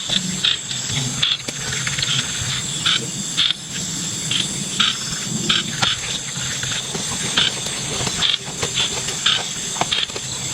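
Wild night-time chorus: insects chirring steadily at a high pitch, with frequent short animal calls breaking in every second or so.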